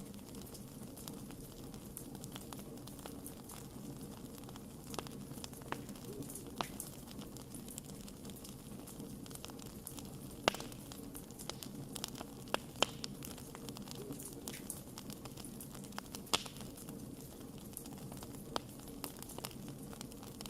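Wood campfire burning with a steady low hiss and scattered crackles and pops, a few sharper snaps about halfway through and again near the three-quarter mark.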